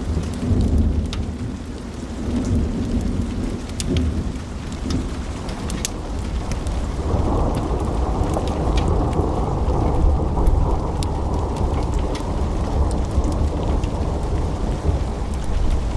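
Wood fire burning in a fireplace: sharp crackles and pops from the logs over a steady low roar of the flames. About halfway through the rushing of the flames grows fuller and louder.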